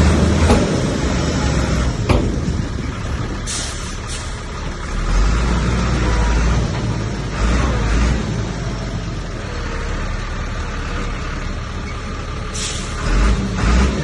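Heavy diesel earthmoving machinery, bulldozer and dump trucks, running under load with a deep engine rumble that swells and eases. Two short hisses cut through, one about three and a half seconds in and one near the end.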